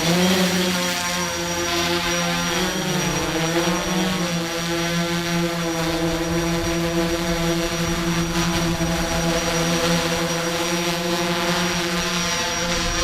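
Electric motors and propellers of a Cinestar 8 eight-rotor remote-control camera helicopter in flight. They give a steady high hum that climbs in pitch at the start, dips and rises again about three seconds in, then holds steady.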